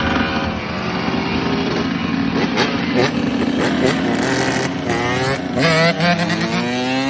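Yamaha YZ125 two-stroke dirt bike engine revving, its pitch rising and falling with the throttle, then climbing steadily near the end.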